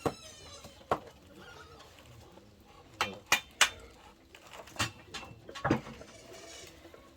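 Irregular sharp knocks and clinks of hard objects, about seven in all, three of them in quick succession midway.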